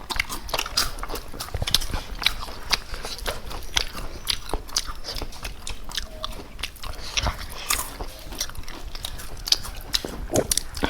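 Close-miked mouth sounds of a person eating chicken: biting and chewing, heard as a steady run of short, irregular wet clicks and smacks.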